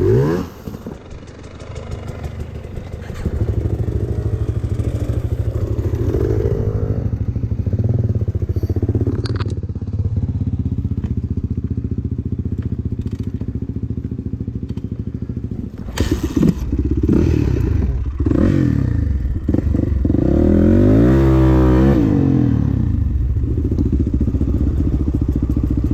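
Dirt bike engine running under the rider, quieter for the first few seconds and then pulling harder, with the revs rising and falling repeatedly later on. Rattles and knocks from the bike over rough ground, one sharp knock about two-thirds of the way in.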